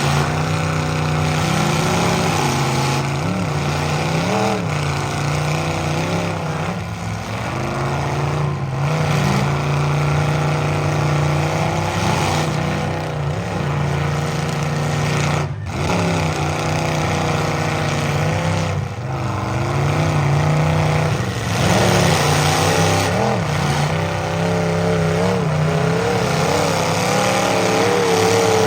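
Engines of full-size demolition derby cars running and revving, several at once, rising and falling in pitch, with a single sharp bang about halfway through.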